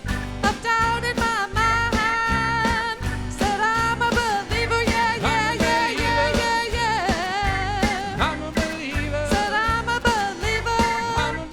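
Live band music: drums and bass with a steady beat under a sung melody.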